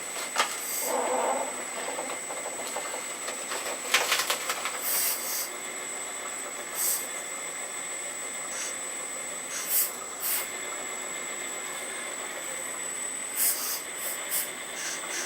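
Earth Digger 4200XL RC hydraulic excavator running, its pump giving a steady high whine, with short hissing bursts several times as the hydraulics are worked and a sharp click about four seconds in.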